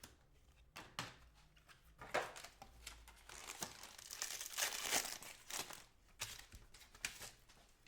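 A foil trading-card pack wrapper crinkling and tearing as it is ripped open by hand, with light clicks of cards being handled. The loudest tearing comes around the middle.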